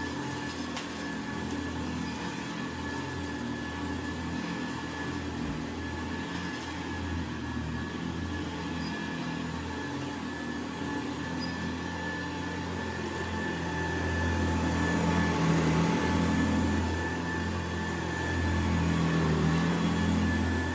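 Hoover Model 70 upright vacuum cleaner running, a steady motor hum with a constant high whine, growing louder for a few seconds about two-thirds of the way through and again near the end.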